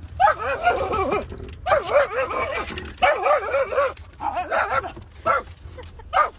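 Dog whining and howling in a run of wavering, warbling calls, each lasting up to about a second, growing shorter toward the end.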